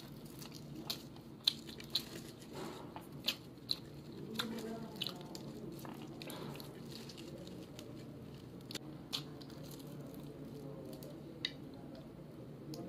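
Chewing and crunching of fried dried fish (tuyo) eaten by hand, with a scattering of sharp crisp crunches over a low steady hum.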